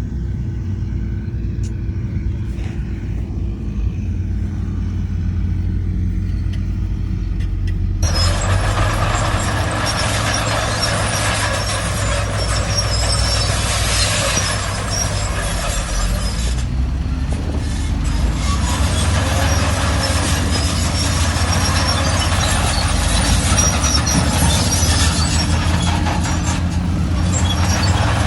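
Heavy diesel earthmoving machinery running steadily, a dump truck or bulldozer engine rumbling. About eight seconds in, a loud, even hiss cuts in abruptly over the engine and stays.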